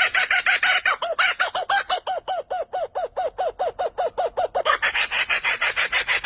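A bird calling in a fast run of short, repeated arched notes, about five a second, with the notes turning rougher near the end.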